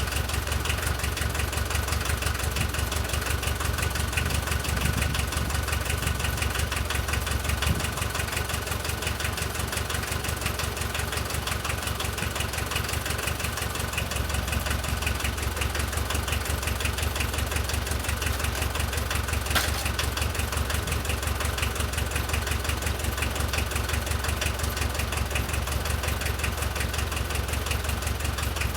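Diesel engine of a VW T3 idling steadily with an even, fast diesel clatter, running again after its injection pump was cleaned and reassembled but still awaiting adjustment.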